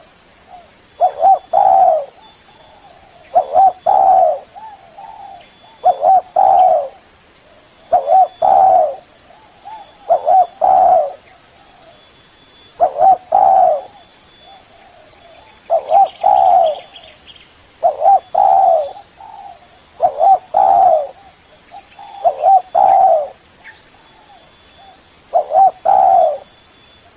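Spotted dove cooing: a short phrase of a few notes repeated about every two and a half seconds, with fainter coos in between.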